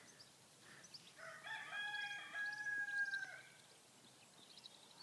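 A rooster crowing once: a call of a few notes ending in a long, held note of about two seconds.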